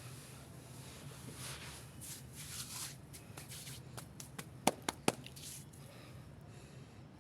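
Hands mixing a damp powder paste, with rustling and squishing. Two sharp taps come near the middle.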